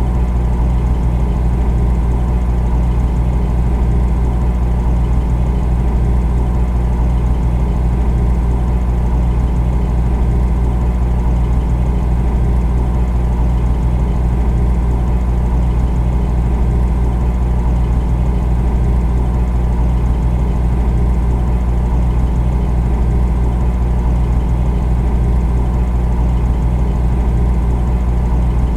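Refrigerator running with a steady, unchanging low hum.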